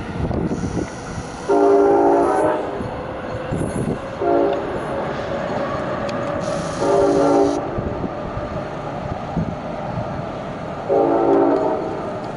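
Amtrak locomotive horn sounding four blasts, long, short, long, long, a chord of steady tones, as a train passes through the station. Strong wind rumbles on the microphone throughout.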